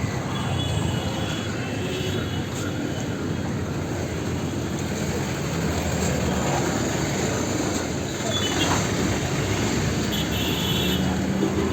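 Busy street traffic: a steady rumble of vehicles, with brief high-pitched squeals at the start and again about ten seconds in.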